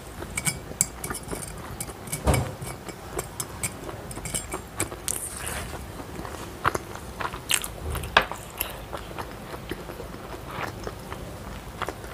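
Close-miked eating sounds: wet chewing and lip-smacking with irregular sharp clicks, picked up by a clip-on microphone at the collar. A duller thump comes about two seconds in.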